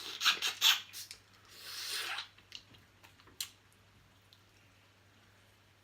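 Close-up eating of crab: a few sharp cracks and wet squishing of shell and meat in the first two seconds, a single click about three and a half seconds in, then quiet.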